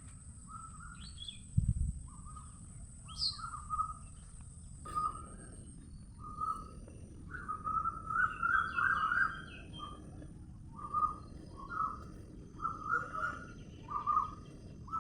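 Birds calling: short chirps repeated about once or twice a second, with a few higher sweeping notes and a thin, steady high tone through the first few seconds.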